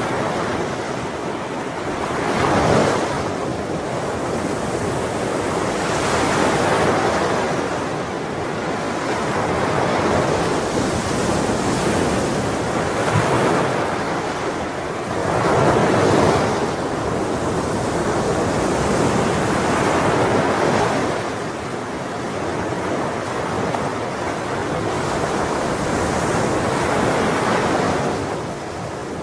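Ocean waves breaking and washing on the shore, a continuous surf with a swell every few seconds, the strongest near the start and about halfway through.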